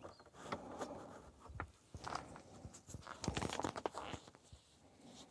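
Faint, irregular clicks and rustling, busiest about two-thirds of the way through.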